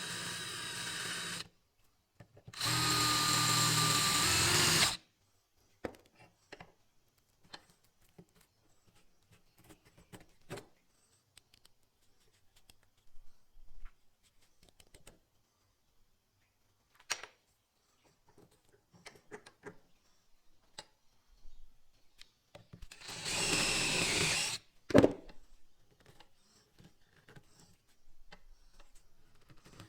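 A handheld power tool with a drill-like motor running in two short bursts of about two seconds each, a steady whine over a rough hiss. Between the bursts come scattered light clicks and knocks of tools being handled, with one sharper knock just after the second burst.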